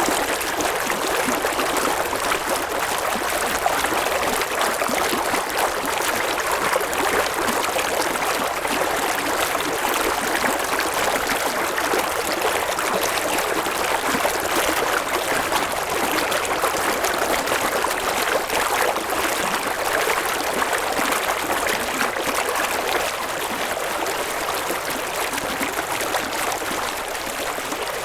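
River water flowing and babbling over stones, a steady rushing with no pauses.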